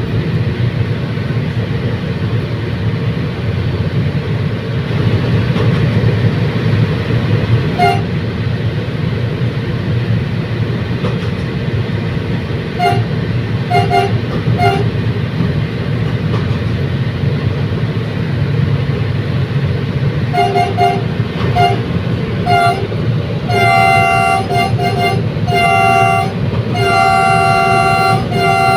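Commuter train running with a steady low rumble while its horn sounds: a single toot, then several short toots, then a quick run of toots, ending in longer blasts near the end.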